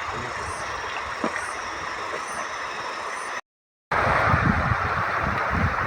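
Steady rushing noise of river water and wind on the microphone during a raft ride. It drops out for a split second just past halfway, then returns louder with low gusty rumbling.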